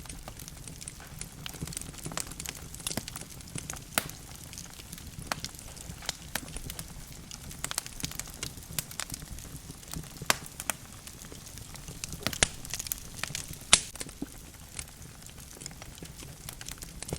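Wood fire burning in a fireplace: logs crackling with irregular sharp pops and snaps, a few louder ones, over a steady low rumble of the flames.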